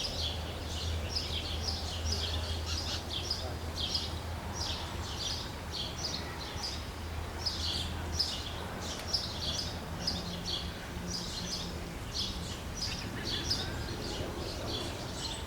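Small birds chirping and twittering rapidly and continuously, over a low steady hum that stops about eight seconds in.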